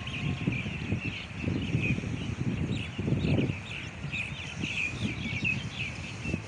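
Small birds chirping busily, many short calls overlapping, over a low rumbling noise that comes and goes.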